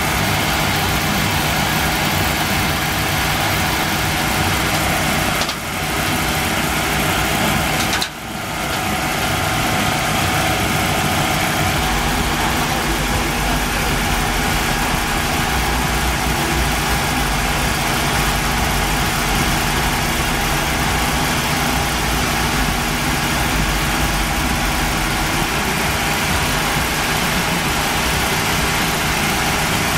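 Nissan Maxima's 3.0-litre V6 idling on a chassis dyno, under the steady rush of a large cooling fan. The sound drops out briefly twice, about five and eight seconds in, and the low rumble gets heavier about twelve seconds in.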